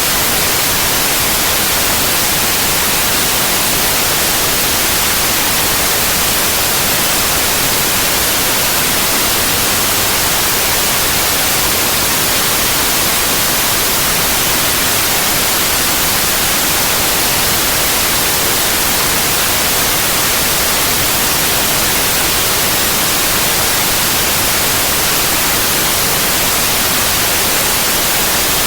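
Synthetic white noise: a steady, even hiss across the whole range, brightest in the highs, with no changes.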